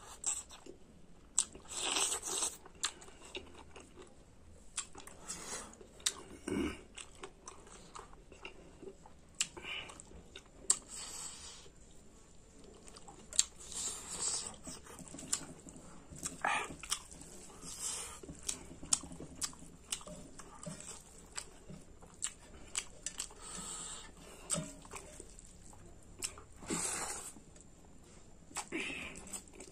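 A person eating close to the microphone: irregular chewing, biting and crunching with wet mouth clicks, as spicy pork curry with rice and king chillies is eaten.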